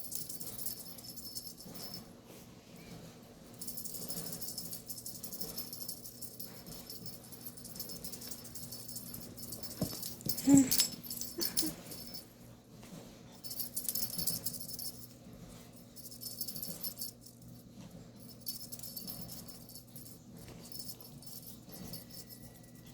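A cat toy jingling in bursts as a kitten plays with it, a fine high-pitched rattle that comes and goes. There is one short, louder pitched sound about ten seconds in.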